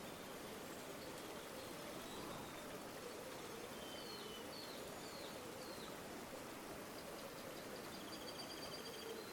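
River water flowing steadily. Faint bird calls sound over it: a few short chirps about four seconds in and a quick trill near the end.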